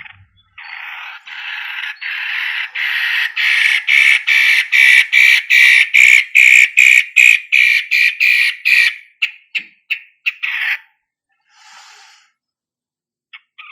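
Long-tailed shrike (cendet matahari) giving a long run of harsh, rasping chatter notes, about three a second, growing steadily louder, then thinning to a few scattered notes and stopping; one faint note follows near the end.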